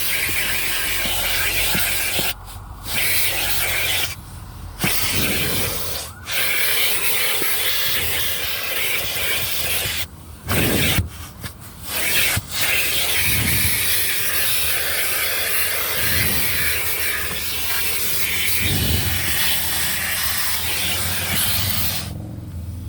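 Automatic car wash air dryers blowing on the car, a loud steady rush of air heard from inside the car. It drops away briefly several times, with a few low thumps.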